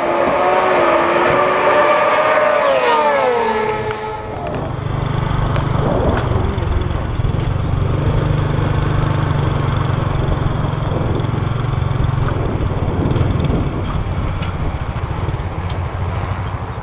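Inline-four supersport motorcycle engine at high revs, its pitch wavering and then falling about three seconds in. From about four seconds in, a steady, low, rough engine rumble replaces it.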